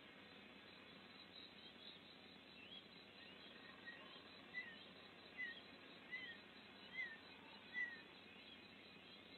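A bird calling a run of short whistled notes, each rising and falling, repeated about every 0.8 seconds and growing louder, with the last five the loudest. Under it is a faint steady hiss.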